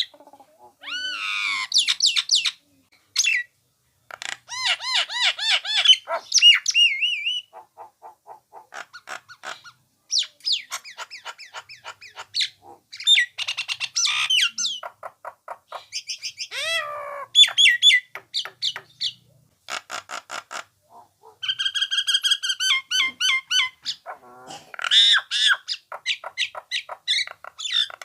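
Nias hill myna (jalak nias) singing and calling: varied whistles, fast runs of repeated notes and a few gliding notes, in phrases with short pauses between them.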